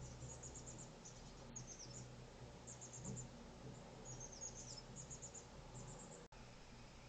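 High, thin bird notes in quick bursts of four to six, one run falling in pitch, over a low steady hum. The sound cuts out for an instant near the end.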